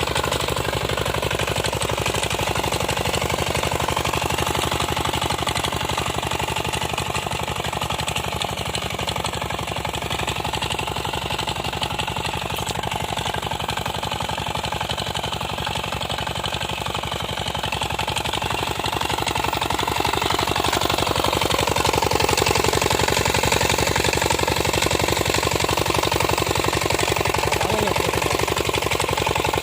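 Small homemade tractor's engine running steadily with a fast, even chugging while it pulls a cultivator for weeding; it gets louder about two-thirds of the way through.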